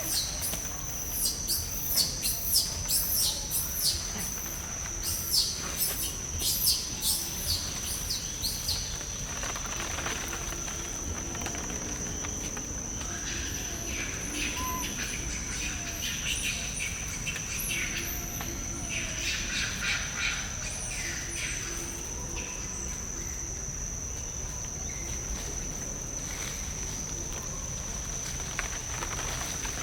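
Steady high-pitched insect drone, with birds chirping in quick runs through the first third and again a little past the middle.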